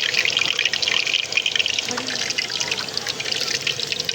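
Hot oil sizzling and crackling steadily as small rolls and puris deep-fry in a pan.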